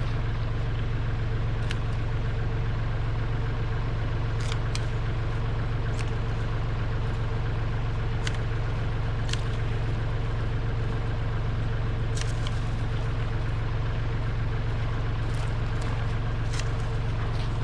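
Kubota L3301 tractor's three-cylinder diesel engine running steadily with a strong low hum, with scattered sharp clicks and rattles.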